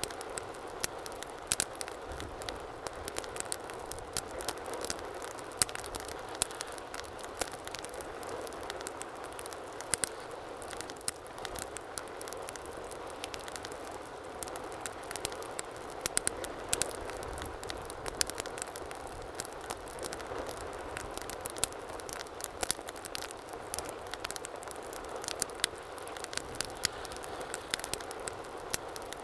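Wood fire burning in a fireplace: a steady soft rushing with frequent sharp, irregular crackles and pops.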